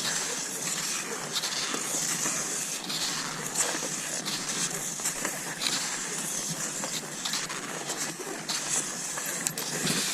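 Cross-country skis gliding over snow in a steady stride: a continuous hiss with a brighter swish about every second, and a few sharp clicks.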